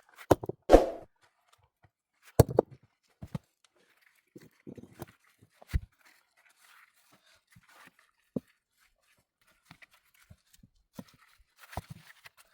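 Scattered sharp knocks and crunches a second or more apart, with faint rustling between them: wood and stone being handled and worked by hand. The strongest knocks fall near the start and about two and a half and six seconds in.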